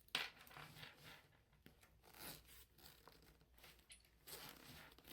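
A first aid kit being handled: faint, irregular scraping and rustling, with a sharper scrape at the very start.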